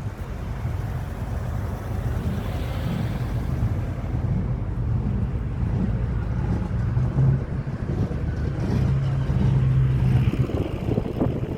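A classic car's engine running with a steady low hum, the hum growing stronger for a couple of seconds near the end.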